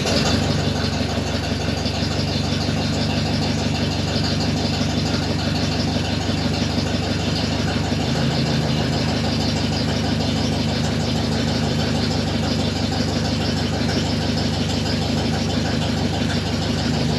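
1954 Ford NAA tractor's four-cylinder gasoline engine running steadily with an even firing beat, just after a cold start at about freezing with the choke and throttle set.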